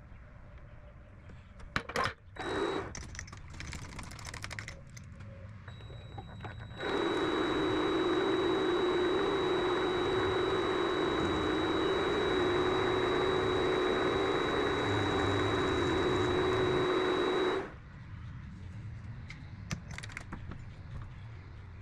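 A motor-driven shop machine runs at a steady speed for about ten seconds with a constant high whine, switching on and off abruptly. It is preceded by a few light clicks and knocks of handling.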